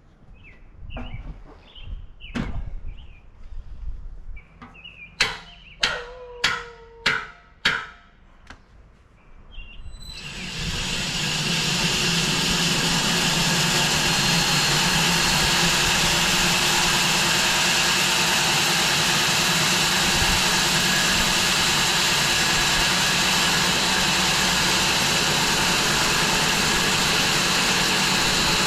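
A run of sharp knocks, then a home-built bandsaw mill starts up about ten seconds in, building over a couple of seconds to a loud, steady running noise that holds to the end.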